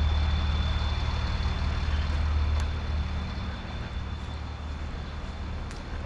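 A vehicle engine idling steadily, its low hum weakening about three seconds in, with a thin steady high whine over it that fades out shortly after.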